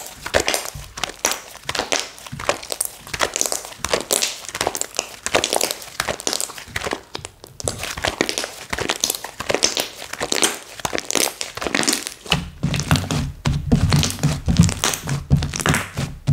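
Slime being squeezed, poked and pressed by hand, giving a rapid, irregular run of wet pops, clicks and crinkly crackles. From about twelve seconds in, dull low thumps join them.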